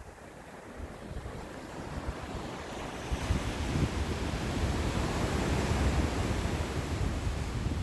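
Ocean waves washing onto the shore: the surf swells over the first few seconds and then stays loud, with a low rumble beneath the hiss.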